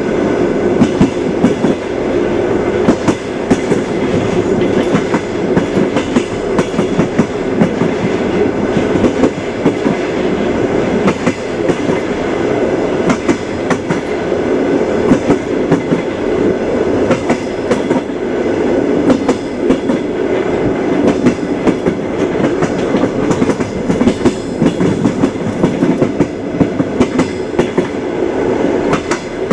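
A moving train's steady rumble, with the wheels knocking over rail joints and track in a continual irregular clickety-clack.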